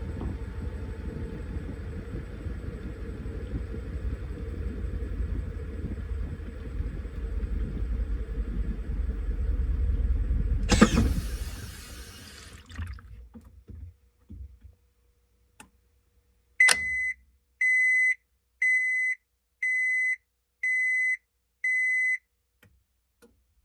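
Washing machine running with a low steady rumble and hum, then a brief loud rush of noise before it winds down and stops. After a click, six identical high beeps about a second apart: the end-of-cycle signal.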